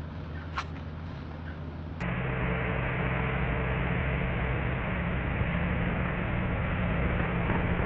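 Steady electric motor hum, with an abrupt change about two seconds in to a louder, noisier steady hum.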